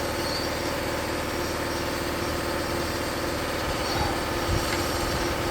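A steady mechanical hum, like a motor running, with a few faint knocks near the end.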